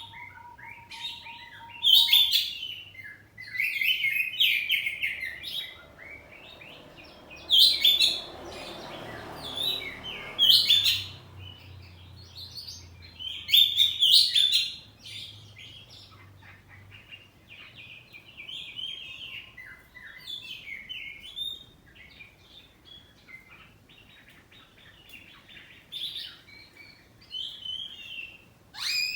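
Oriental magpie-robin (kacer) singing in loud, varied bursts of whistled and chattering phrases, several seconds apart in the first half. The phrases give way to softer, continuous twittering in the second half.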